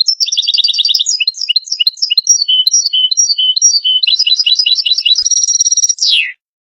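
European goldfinch singing one phrase of about six seconds: fast twittering trills and chirps, ending in a held high note that slides quickly down.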